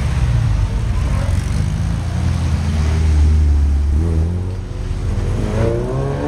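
Classic car's engine running close by: a steady low rumble that eases off about four seconds in.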